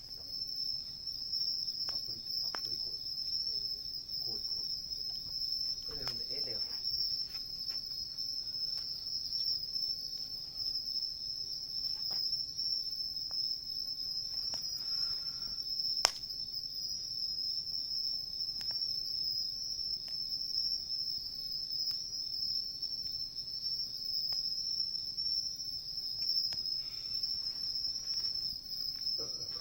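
Crickets or similar insects trilling steadily at a high pitch, over the faint, irregular crackle of a wood campfire, with one sharp pop about halfway through.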